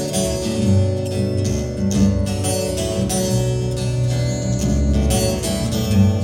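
Live band playing an instrumental break between sung verses: strummed acoustic guitar in a steady rhythm over low sustained notes, with no vocals.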